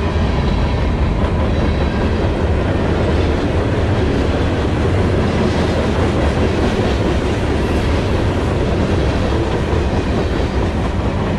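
Manifest freight train's tank cars and open-top hoppers rolling past close by: a steady, loud rumble of steel wheels on rail with wheel clicks over the rail joints.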